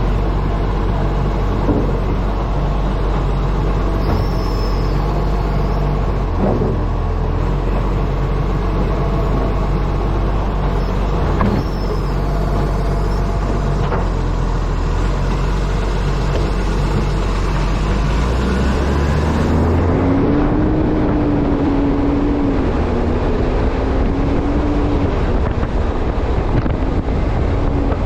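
Acco refuse truck's diesel engine running as the truck drives, with wind noise on the camera mounted on the front of the truck. About 19 seconds in the engine note changes and a wavering whine comes in.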